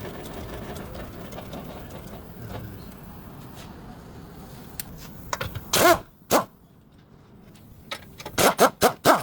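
Squeaking from the Ford Marquis's front suspension stabilizer bar bushes: short, loud creaks with a wavering pitch, two just past halfway and a quick run of four near the end, over a steady background hum.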